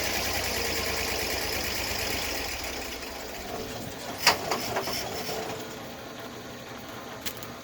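Small engine of a portable band sawmill running steadily, then dying down about three seconds in. A sharp knock about four seconds in is the loudest sound, followed by a few lighter knocks.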